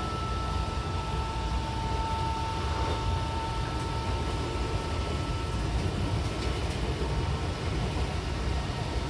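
Odakyu 70000 series GSE electric train running at steady speed: a low rumble of wheels on rail with a steady high whine from its full-SiC VVVF traction drive. A second, lower tone fades out about halfway through.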